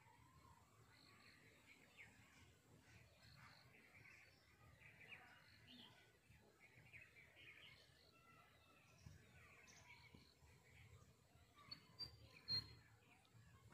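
Faint outdoor ambience with small birds chirping and tweeting. About twelve seconds in come two brief sharp clicks, the second louder.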